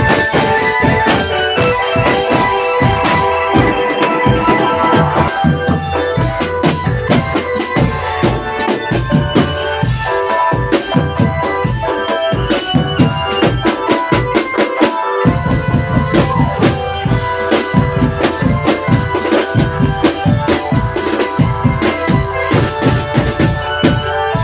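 Marching drum band playing: dense, regular drum beats under a sustained keyboard-like melody. The low drums drop out for a moment about fifteen seconds in, then come back.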